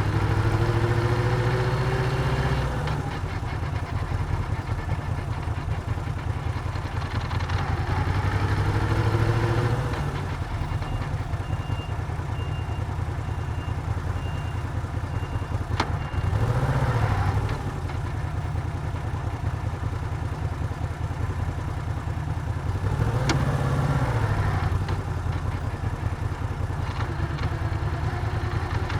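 Moto Guzzi V7's air-cooled transverse V-twin running on the road, rising in pitch four times as it pulls through the revs and settling back in between.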